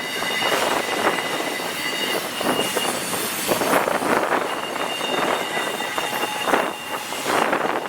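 Long intermodal freight train's cars rolling past with a steady rushing rumble of wheels on rail, and a thin high wheel squeal that drops out in the middle and comes back.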